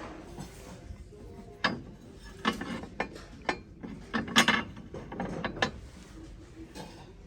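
A run of irregular sharp clicks and knocks, a clatter of hard objects being handled or rattling, loudest a little past four seconds in.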